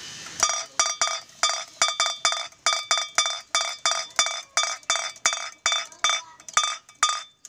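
Bamboo otok-otok clapper on a kite, driven by its propeller, knocking out a fast run of ringing wooden strikes, about four a second, slowing a little near the end.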